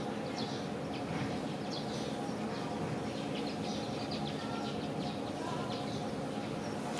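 Outdoor ambience: small birds chirping on and off, in short high notes, over a steady low hum.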